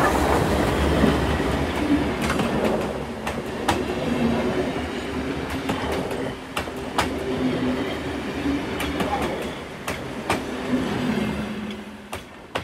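Train running on rails: a steady rumble with scattered sharp clicks of wheels over rail joints, cutting off abruptly near the end.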